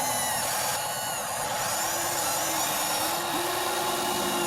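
The small electric motor of a radio-controlled construction model, whirring steadily after starting abruptly, with faint rising and falling whines above it.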